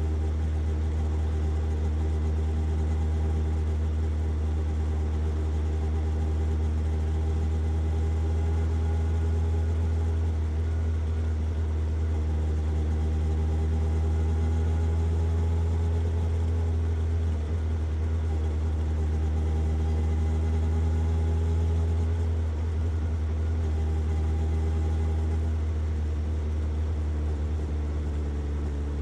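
Suzuki GSX-S750's inline-four engine idling steadily through its exhaust.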